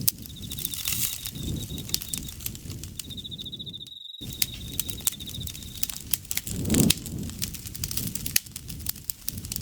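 Wood campfire crackling and popping over a low, steady rumble of burning, with a louder low swell about seven seconds in. An insect trills steadily at a high pitch through the first six seconds. All sound cuts out briefly about four seconds in.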